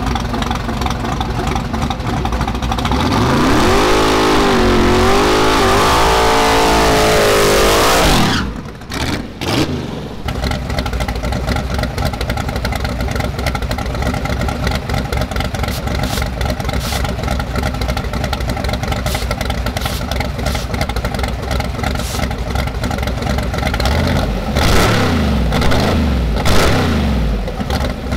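Fox-body Mustang drag car's engine held at high revs for about five seconds in a burnout, the pitch wavering over a hiss, then dropping off suddenly. It then idles steadily, with a few quick throttle blips near the end.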